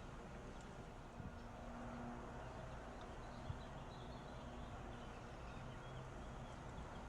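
Faint, steady outdoor background noise with a few faint high chirps in the middle and a single sharp click about three and a half seconds in.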